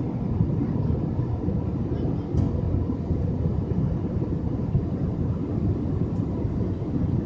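Steady cabin noise of an Airbus A320 in flight: an even, low rumble of engines and airflow with a faint steady hum.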